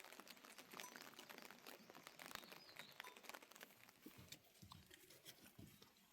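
Near silence with faint, irregular ticks and taps of light raindrops pattering.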